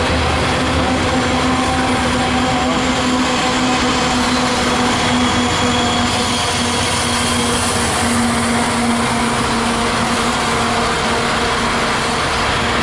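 Loaded coal train rolling past: a steady, loud rumble of freight cars on the rails, with a steady low hum running through it.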